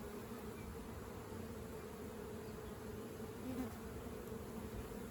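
Honeybees buzzing around an open hive during an inspection: a steady, even hum.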